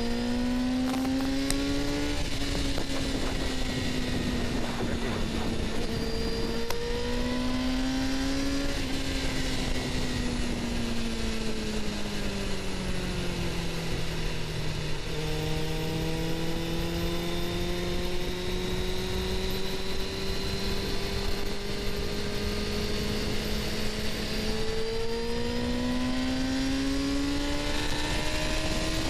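Suzuki GSX-R750's inline-four engine riding along with wind rushing past. The pitch climbs, drops at a gear change about six seconds in and climbs again, then falls away slowly as the bike eases off. It holds steady for several seconds and rises once more near the end.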